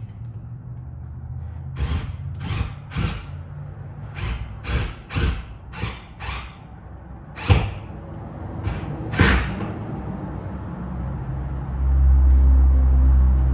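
About ten sharp knocks at uneven intervals over several seconds, the loudest near the middle, over a low steady hum. A louder low rumble comes in near the end.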